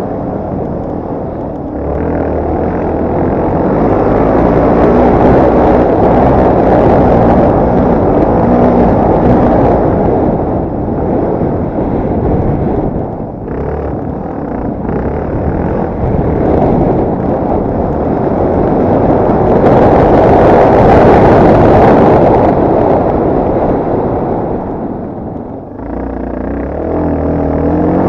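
Yamaha TT250R's single-cylinder four-stroke engine running under way off-road, its note rising and falling with the throttle, under a loud rushing noise that swells and eases over several seconds.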